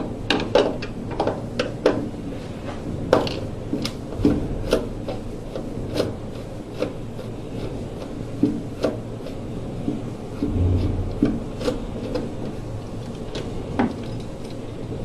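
Scattered clicks, taps and rubbing from hand work on a gas furnace, as the screws holding the plastic condensate trap are taken out and the trap is removed. A short low hum comes about ten and a half seconds in.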